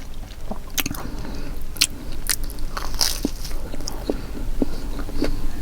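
Close-miked chewing of pizza, with irregular crisp clicks and crunches from bites of the crust.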